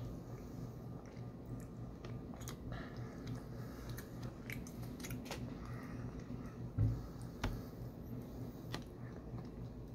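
A person chewing soft taro fudge, with many small wet mouth clicks, over a steady low hum. A louder low thump comes about seven seconds in, with a smaller one just after.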